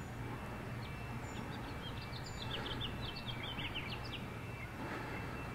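Outdoor ambience with a steady low background rumble, over which a small bird sings a quick series of short high chirps from about one to four seconds in.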